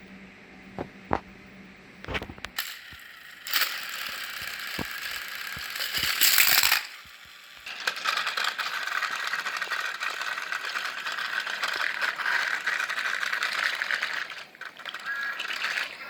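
Battery-powered toy trains running on plastic track: a steady, rattling motor whir with clicks of the toys being handled at the start, a short break about 7 seconds in, then the whir again until near the end.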